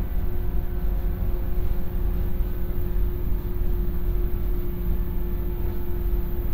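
Interior running noise of a JR 115-series electric train cruising at steady speed: a low rumble from the wheels on the rails, with a steady hum held at one pitch.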